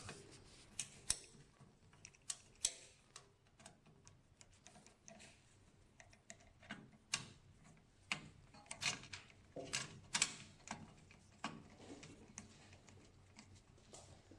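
Scattered light clicks and taps, at uneven intervals, of small plastic and metal parts as a printer's ink pump assembly is handled and screwed into place.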